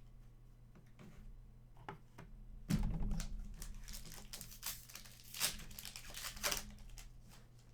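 Crinkling and tearing of a hockey trading-card pack's wrapper as it is ripped open by hand, starting a little over a third of the way in and lasting about four seconds.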